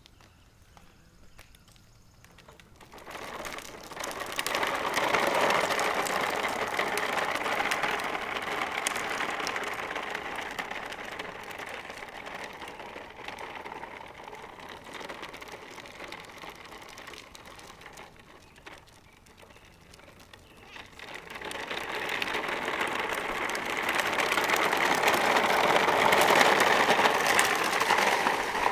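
Rattling, scraping rumble of a child's bike towing a plastic toy dump truck, building about three seconds in, dying away, then building again and loudest near the end.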